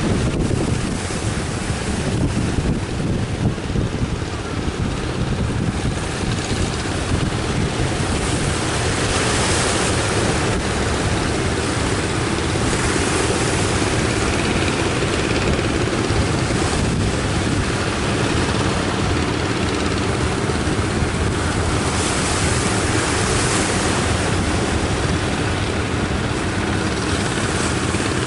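Sea surf breaking and washing up the beach in waves of hiss, under strong wind buffeting the microphone with a steady low rumble.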